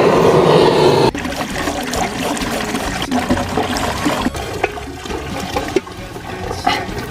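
Running water and splashing as chili peppers are rinsed by hand: a strong gush of water for about the first second, then quieter splashing with small knocks.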